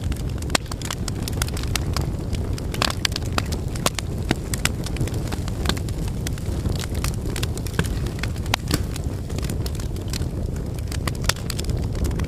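Wood fire burning in a fireplace: steady low rumble with frequent irregular crackles and pops.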